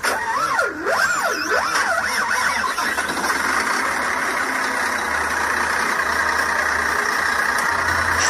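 A whistling tone swoops up and down over the first three seconds. An engine then runs steadily, with a low drone underneath.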